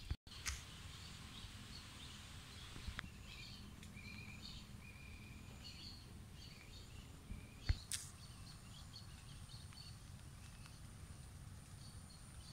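Scattered short bird chirps over a low steady outdoor rumble, with a few sharp knocks, the loudest pair about eight seconds in. A thin, steady high-pitched tone starts just after them and carries on.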